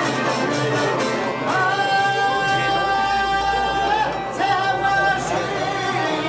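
Albanian folk song: a singer holds one long note, breaks briefly, then holds a shorter one, over a steady rhythmic instrumental accompaniment.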